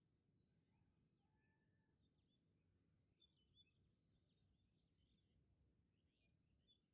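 Near silence with faint birds chirping in the background: scattered short high chirps, the clearest three coming near the start, about four seconds in and near the end.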